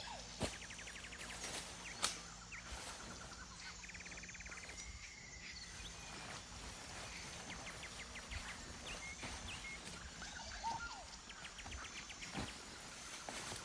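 Outdoor forest sound: a few short, rapid rattling trills and scattered sharp clicks and snaps, the loudest two coming about half a second and two seconds in, over a faint steady background.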